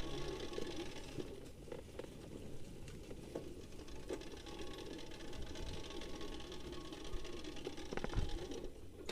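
Trail motorcycle engine running faintly and steadily, with a few light knocks.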